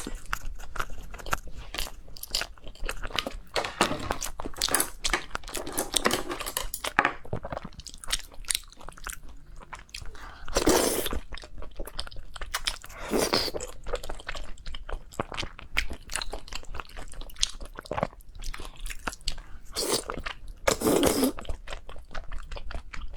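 Close-miked eating sounds: a person biting and chewing food with a crunchy texture, the crunches coming in quick, repeated strokes, a few of them louder and longer.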